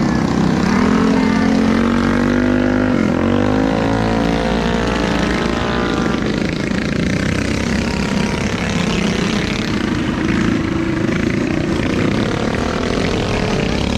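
Several minibike engines racing together, revving up and down so their overlapping pitches rise and fall, with one clear drop and climb back about three seconds in.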